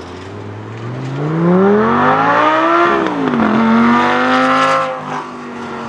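A sports car accelerating hard: the engine note climbs steeply, drops abruptly with an upshift about three seconds in, climbs again, then falls back to a lower, steady note about five seconds in.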